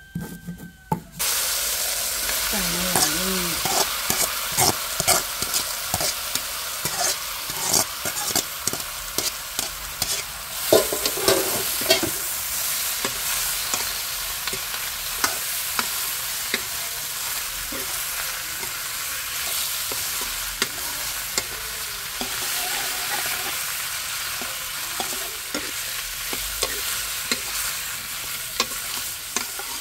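Sliced bamboo shoots frying in oil in a metal karahi, sizzling steadily while a metal spatula stirs them, scraping and knocking against the pan. The sizzle comes in suddenly about a second in.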